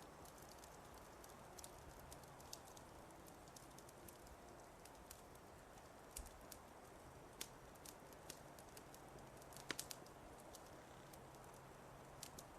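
Fireplace crackling softly: irregular sharp pops and snaps over a faint steady hiss, with a quick cluster of louder pops about ten seconds in.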